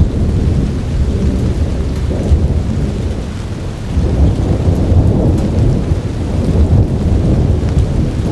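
Thunder rumbling continuously over steady heavy rain. The rumble eases a little about three seconds in and swells again about a second later.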